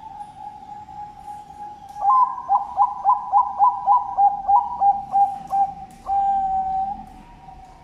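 Zebra dove (perkutut) cooing: a held note, then from about two seconds in a quick run of about a dozen short clipped notes, ending in a long drawn-out note.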